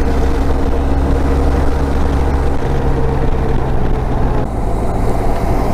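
Motorcycle engine running steadily at road speed with heavy wind rumble; the engine note steps down a little about halfway through and again near the end.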